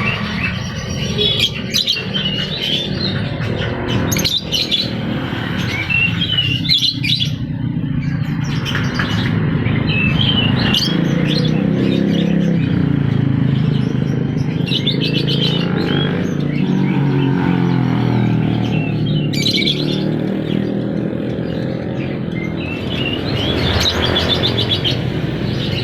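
Lovebirds chirping in short, rapid twitters throughout, over a steady low hum.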